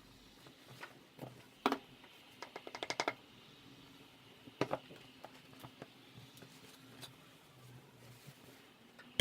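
Light clicks and knocks of objects being handled at close range: a single knock, then a quick run of about eight clicks around three seconds in, another knock near the middle, and a few fainter ticks after.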